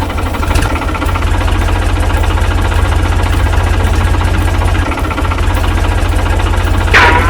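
Small DIY mini-tractor engine running with a fast, even knock. Near the end comes a brief high squeal that falls in pitch.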